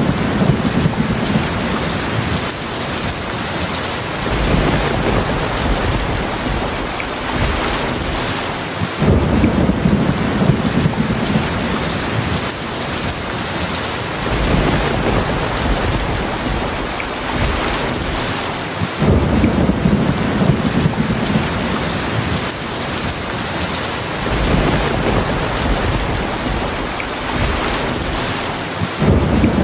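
Steady heavy rain hissing, with low thunder rumbles that swell and fade about every five seconds.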